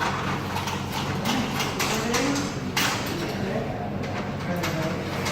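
Irregular metallic clicks and knocks from the mechanism of a medium-voltage switchgear cubicle being worked by hand, over a steady low hum.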